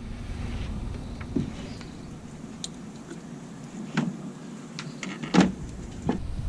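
Irregular knocks and clicks over a low rumble, with the heaviest thump about five and a half seconds in.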